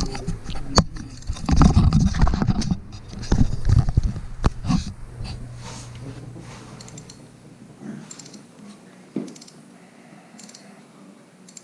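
Loud clunks and rustling of hands and tools working on the engine mounts, then a ratchet wrench clicking in short spells as the engine-mount bolts are tightened.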